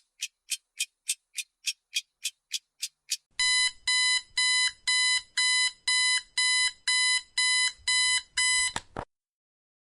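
Clock ticking, about three to four ticks a second. About three seconds in, the timer's alarm goes off at zero: a string of even, steady-pitched electronic beeps, about two a second, that stops suddenly near the end.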